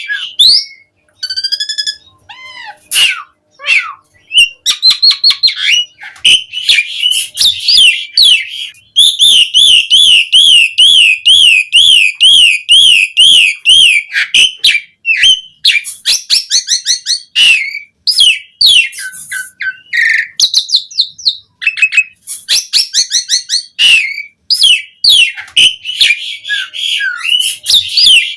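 Asian pied starling (jalak suren) singing a long, varied song of whistles and quick chattering notes. Near the middle it breaks into a rapid rolling trill for about five seconds.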